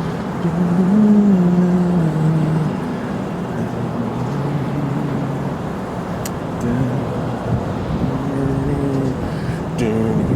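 A man humming a tune in short, wandering phrases over a steady rushing outdoor noise, with a couple of sharp clicks later on.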